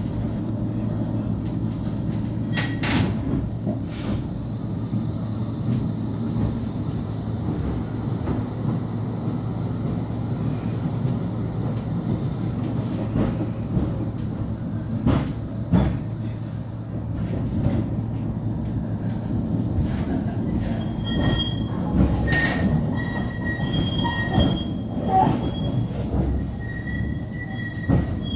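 Flexity tram running on rails: a steady low rumble with scattered knocks over rail joints. In the second half, short high-pitched wheel squeals come again and again.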